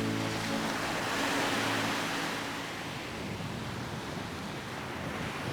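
Sea waves washing on a beach, a steady surf that swells and ebbs. Background music fades out in the first moment.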